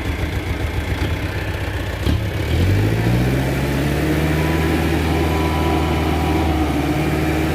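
Mitsubishi Canter dump truck's diesel engine idling with an even pulse. About two seconds in there is a short clunk, then the engine speeds up and holds a steady higher speed, driving the hydraulic hoist that raises the tipper bed.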